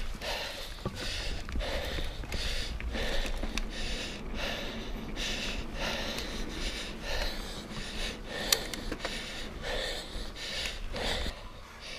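Mountain biker breathing hard from exertion, puffing in and out about once a second, over a low rumble of wind on the microphone, with one sharp click about two-thirds of the way in.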